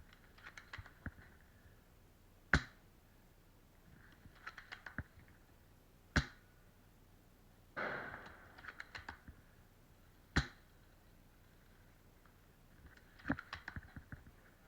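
Spring-powered bolt-action airsoft sniper rifle firing four single shots, one about every four seconds, with the bolt racked back and forward in a short run of clicks between shots.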